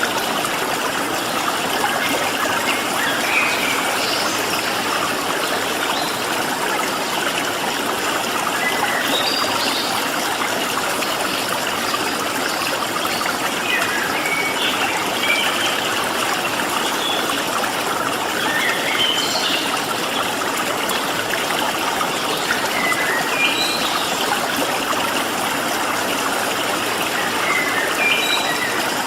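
Flowing stream water running steadily, with wild birds chirping in short scattered calls over it.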